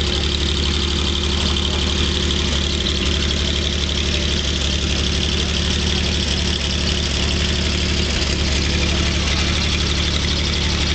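1949 Chevrolet dump truck's straight-six engine idling steadily, with an even, unchanging note.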